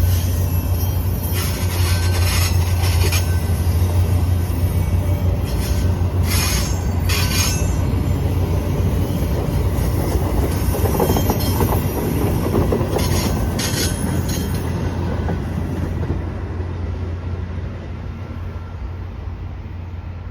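A train passing with a steady heavy low rumble, its wheels giving off short spells of high-pitched squeal and rail noise several times; the sound fades over the last few seconds as it moves off.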